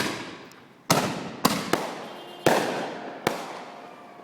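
Fireworks going off: six sharp bangs in about three and a half seconds, each trailing off in an echo.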